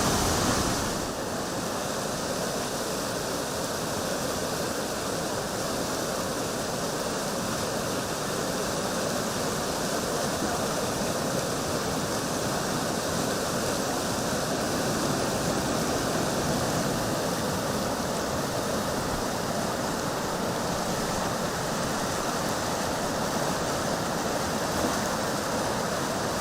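Floodwater of the Turkwell River rushing steadily, an even unbroken wash of water noise.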